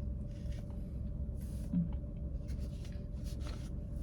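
Steady low rumble and hum of a parked car's interior, with faint rustles and small clicks of someone moving and eating in the seat.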